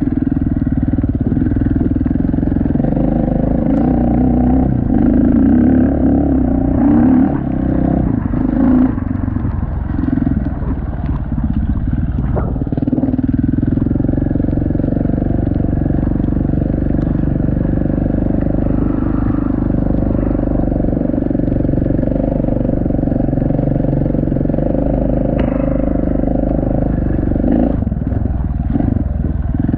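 Enduro motorcycle engine running steadily under throttle while riding. The engine note eases off briefly about twelve seconds in, then picks up again.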